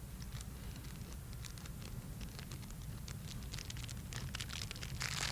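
Scattered light clicks, taps and rustling of someone eating and handling food, over a steady low background rumble, with a denser rustle near the end.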